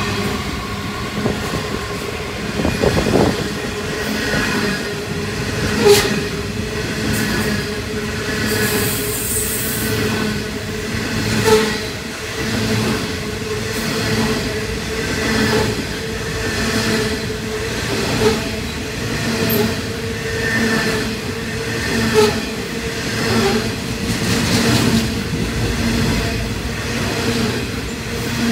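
Freight train of coal hopper wagons rolling past close by: continuous steel wheel-on-rail rumble and clatter that swells and fades every couple of seconds as the wagons' wheelsets go by, with a steady whine underneath.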